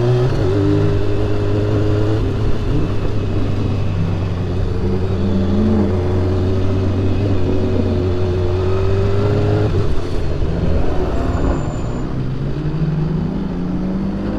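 BMW S1000RR's inline-four engine running at steady revs under way. About ten seconds in the revs drop off, then they rise again near the end.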